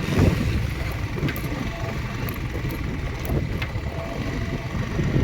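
Motorcycle engine running while being ridden, with wind buffeting the microphone as a steady low rumble.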